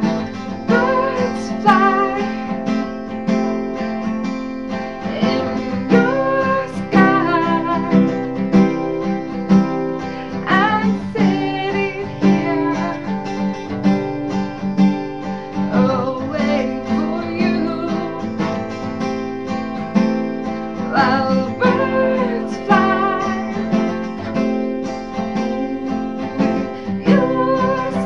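A woman singing a worship song, accompanied by a strummed acoustic guitar.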